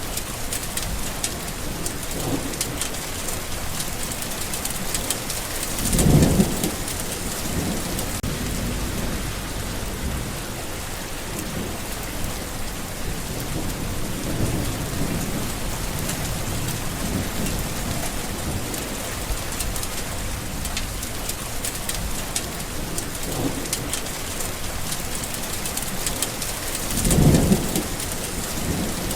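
Steady rain falling, with two short low rumbles of thunder, about six seconds in and again near the end.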